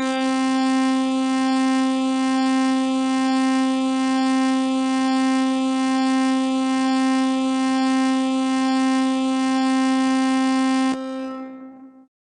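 Emergency alert alarm tone: a single buzzy, horn-like note rich in overtones, held steady for about eleven seconds, then fading out.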